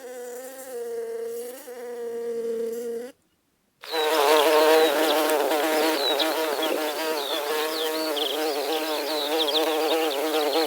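Insects buzzing in flight: a steady buzz that cuts off about three seconds in, then after a brief silence a louder, wavering buzz, as of several insects together, with short high chirps above it.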